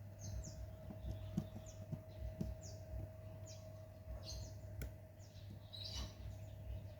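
A bird chirping in the background, a string of short, high, falling chirps roughly one a second. Under it run a steady faint hum and scattered soft knocks.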